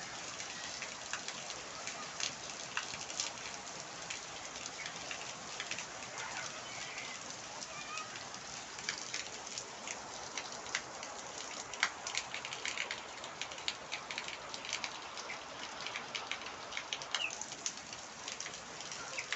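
Heavy rain falling steadily, with many sharp drop strikes on nearby surfaces. A few short bird chirps now and then.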